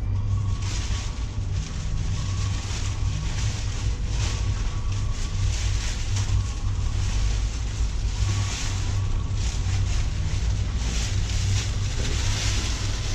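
Synthetic fabric motorcycle cover rustling in repeated swishes as it is pulled off the bike, over a steady low rumble.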